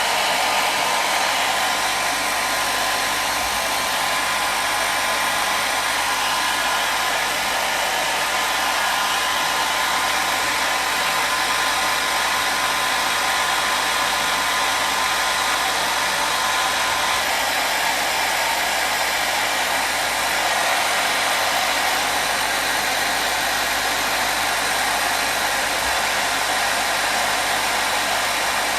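Hair dryer running continuously: a steady, unchanging rush of airflow with a faint motor whine.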